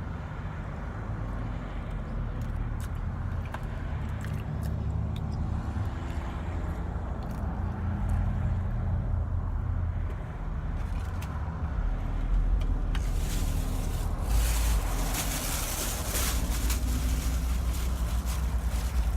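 Steady low rumble of an idling vehicle engine, with scattered faint clicks. About thirteen seconds in, a broad hiss comes in on top and grows louder.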